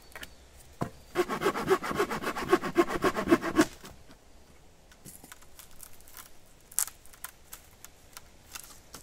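A hand saw cutting through wood in quick, even rasping strokes for about two and a half seconds, followed by scattered knocks and snaps of wood being handled.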